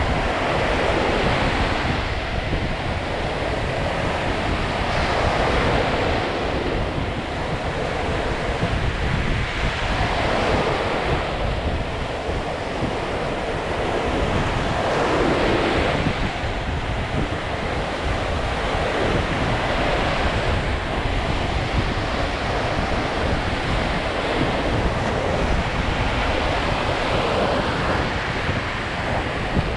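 Lake Michigan waves breaking and washing on the shore, swelling every few seconds, with wind rumbling on the microphone.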